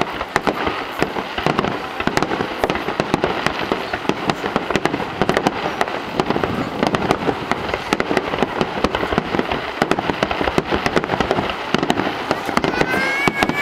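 Aerial fireworks going off in quick succession: many sharp bangs and crackles a second, overlapping without a break.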